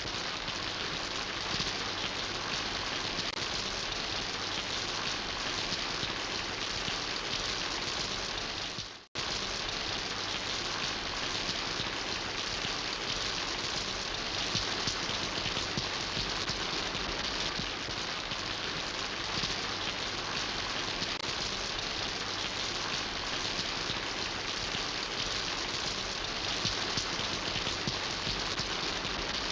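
Steady rain falling, a dense even patter. About nine seconds in the sound briefly fades out to silence and comes straight back.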